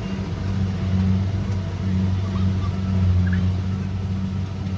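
Kubota DC70 Pro combine harvester's diesel engine running steadily, a low even drone.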